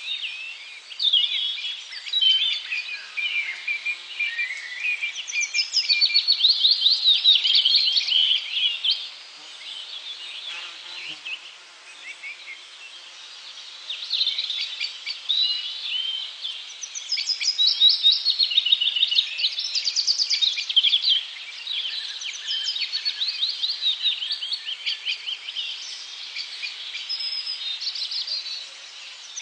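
Birds chirping and trilling in quick runs of high notes, with a quieter spell about ten seconds in before the calls pick up again.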